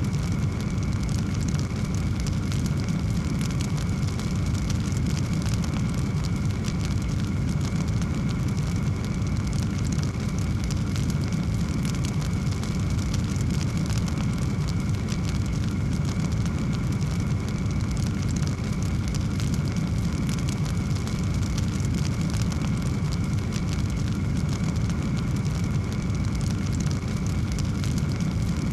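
Fireplace fire burning steadily: a low rumble of flame with many small crackles and pops throughout.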